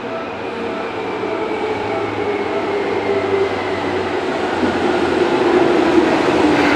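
Seibu Railway 2000 series electric commuter train running past close by as it slows into a station: wheel and motor noise growing louder, with a motor whine that falls slowly in pitch. A repeated ding sounds about twice a second through the first half.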